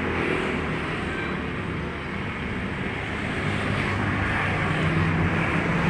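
Street traffic noise: a steady din with a passing vehicle engine humming, growing louder near the end.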